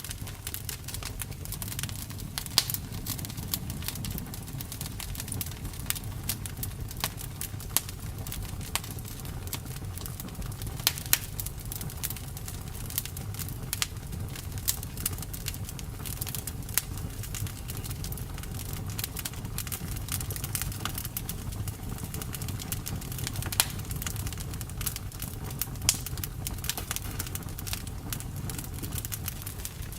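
Campfire crackling: a dense run of small snaps and clicks, with a few louder pops scattered through, over a steady low rush of burning.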